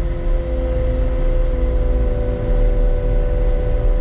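Skid steer's diesel engine running steadily, a constant low drone with a steady hum.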